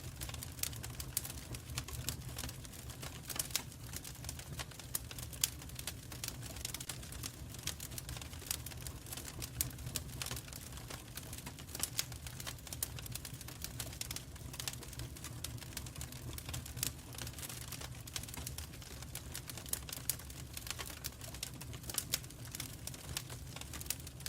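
Wood fire crackling in a fireplace, with a constant patter of irregular pops and snaps over a low, steady rumble.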